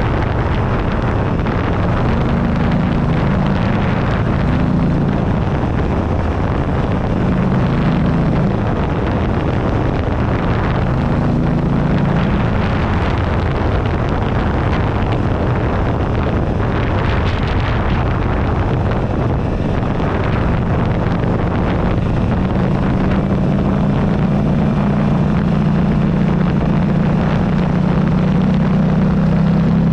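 Buell Ulysses XB12XT V-twin engine running under way, with wind rushing over the microphone. The engine note shifts up and down through the first half, then settles into a steady drone that climbs slightly over the last third.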